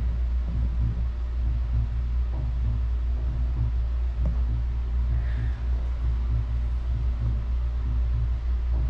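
A steady low rumble with a faint, unevenly pulsing hum over it, and a couple of faint clicks.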